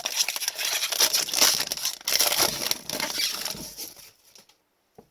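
Wrapper of a 2020-21 Upper Deck Series 2 hockey card pack being torn open and crinkled, a dense crackling that stops about four seconds in, followed by a few faint ticks of cards being handled.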